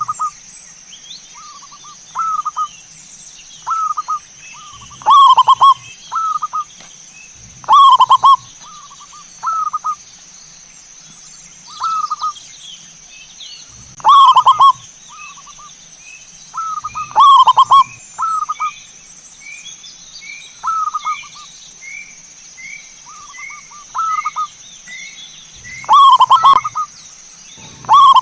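Zebra dove (perkutut) cooing: loud phrases every few seconds with softer, shorter coos between them. The loud phrases hit full level.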